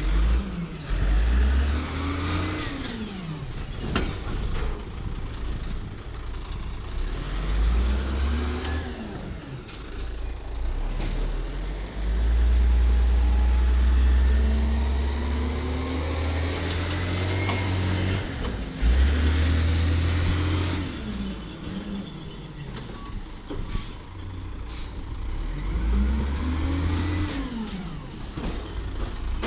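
1995 WhiteGMC side-loader garbage truck's Volvo VED7 diesel engine revving up and falling back several times as it works, with air-brake hisses. A louder steady stretch in the middle carries rising whines.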